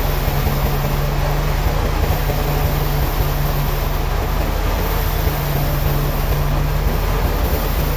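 Heavy sawmill machinery running steadily, a deep steady hum under a continuous noisy rush.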